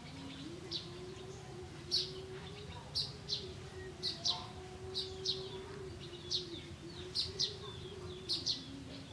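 Birds chirping: short, sharp chirps repeated about once or twice a second, over a steady low hum.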